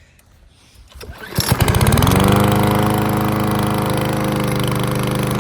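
Remington self-propelled lawnmower's 140cc Powermore overhead-valve engine starting about a second in: a brief cranking, then it catches, rises in speed and settles into a steady run.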